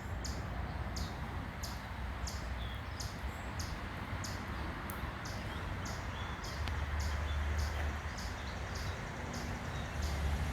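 Chipmunk chipping: short, high chip calls repeated at an even pace, a little over one a second, the steady call a chipmunk keeps up while wary.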